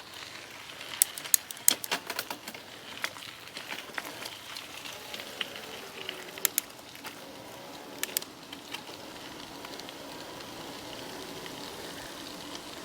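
Bicycle riding along a trail: steady rolling noise with scattered sharp ticks and crackles, thickest about a second in and again around six to eight seconds in.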